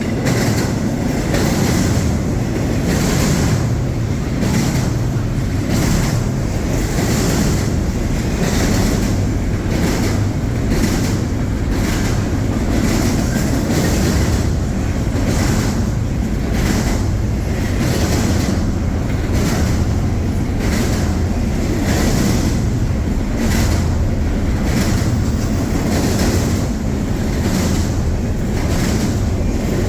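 CSX intermodal freight train's cars rolling past, wheels clacking over the rail joints in a steady rhythm of one to two clacks a second.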